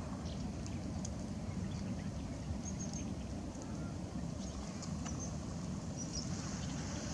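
Steady low rumble with a few faint, short, high-pitched bird chirps scattered through it.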